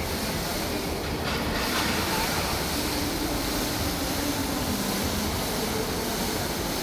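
Indoor waterfall: falling water giving a steady, even rushing noise.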